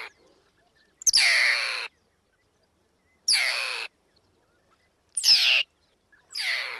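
Mongoose calling: four harsh, hoarse screeches, each under a second long, with gaps of one to two seconds between them.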